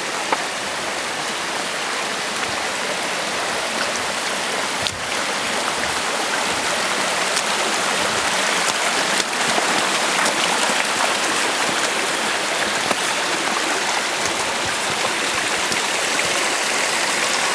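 Steady rush of a mountain stream, a little louder after about five seconds.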